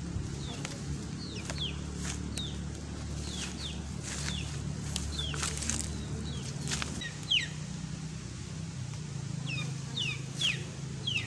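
A bird chirping over and over, each chirp a short, high note falling in pitch, over a low steady hum that fades out about seven seconds in. Scattered clicks come from leaves and stems being picked by hand, and one sharp click about seven seconds in is the loudest sound.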